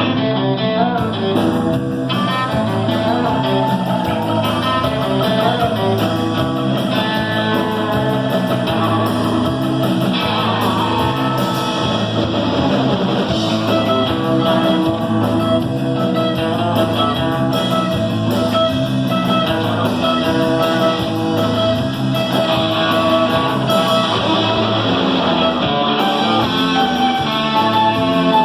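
A rock band playing live, with electric guitars, bass and drums with steady cymbal strokes.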